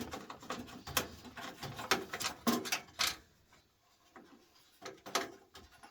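Parts of a desktop computer being handled during a teardown: a run of sharp knocks and clicks of hard plastic and metal parts over the first three seconds, then a brief hush and a few more clicks near the end.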